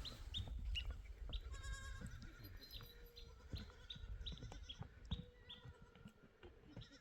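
Goats bleating, with many short, high, falling chirps repeating throughout.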